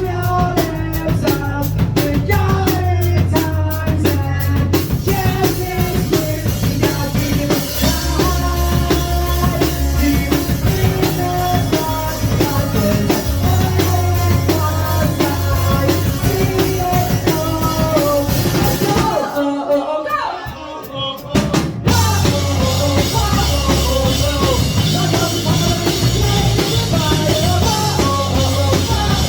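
Live rock band playing a song with drum kit, guitars and singing. About two-thirds through, the band drops out for roughly two seconds, leaving one sliding note, then comes crashing back in.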